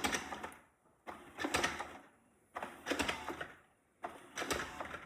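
Shark robot vacuum's motors whirring and clicking in short repeated bursts, about one every second and a half, as it stalls and won't move off toward its dock.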